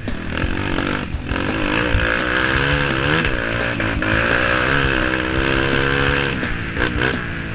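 Engines running and revving, their pitch wavering up and down.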